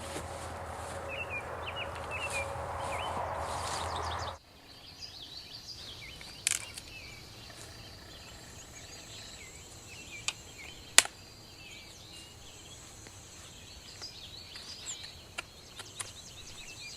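Birds chirping outdoors. For the first four seconds a louder, even rushing noise lies under the chirps, then cuts off abruptly. After that there are a few sharp clicks, the loudest about eleven seconds in.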